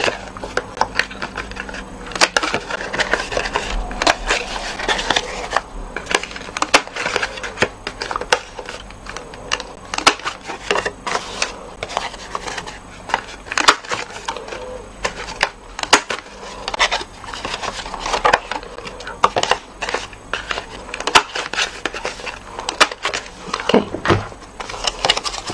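Corner rounder punch clunking as it cuts the corners of cardstock: a long run of sharp, irregular clicks, with paper being handled and turned between punches.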